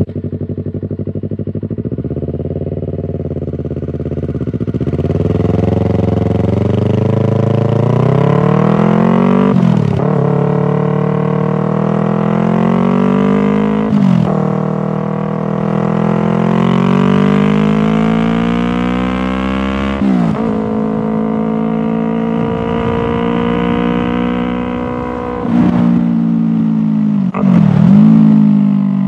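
2019 Yamaha R3's parallel-twin engine running through a Toce full exhaust with the dB killer installed, pulling up through the gears: the pitch climbs steadily and drops sharply at each gear change, about six times.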